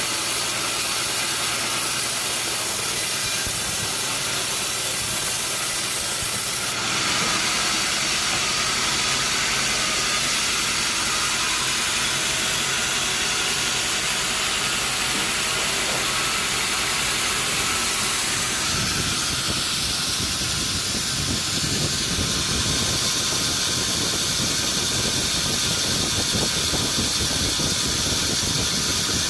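Sawmill saw cutting through a teak log: a loud, steady hissing whine of the blade in the wood that brightens abruptly about seven seconds in, with a lower engine-like rumble joining about two-thirds of the way through.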